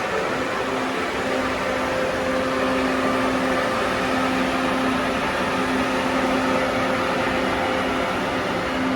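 Kaohsiung MRT metro train at the platform, giving a loud, steady hum of equipment and rumble with a few held tones.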